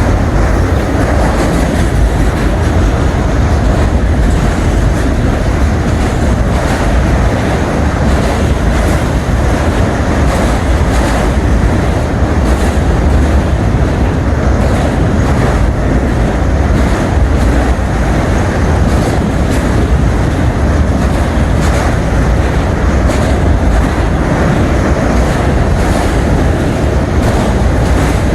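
Freight train cars rolling past in a steady loud rumble, wheels clicking over the rail joints.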